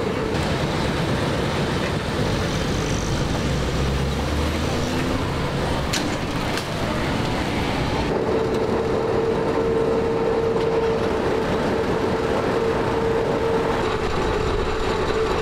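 A train running by, with continuous rumble and rail noise and a sharp knock about six seconds in. A steady tone joins about halfway through and holds to the end.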